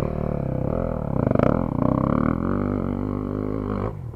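Dirt bike engine labouring up a hill climb, its pitch rising about a second in and then holding, and dropping off near the end. The riders take it for lugging in too tall a gear, likely third.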